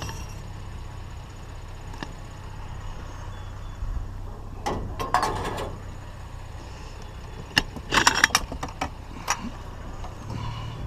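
Truck engine idling with a steady low hum, while something is handled and loaded. There is a burst of clattering knocks about five seconds in and a louder one about eight seconds in.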